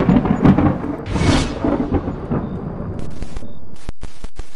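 A rumble of thunder sound effect with a sharper crack about a second in, then from about three seconds a loud hiss of TV static that cuts in and out in short, abrupt breaks.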